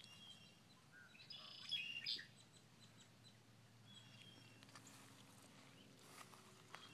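Faint songbird calls: a short cluster of high chirps about a second and a half in, then a few fainter chirps later, over a faint low background hum.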